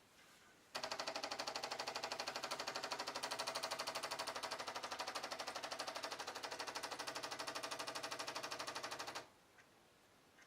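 Bosch Tassimo Vivy capsule coffee machine's pump running while brewing, a fast, even pulsing buzz that starts abruptly just under a second in and cuts off sharply after about eight seconds.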